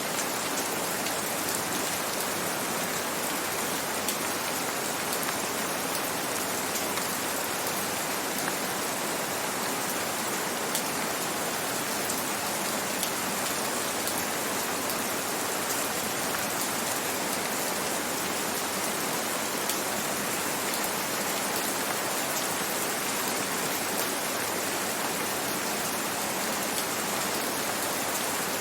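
Steady rain falling, an even hiss of rainfall with scattered faint drop ticks, unchanging throughout.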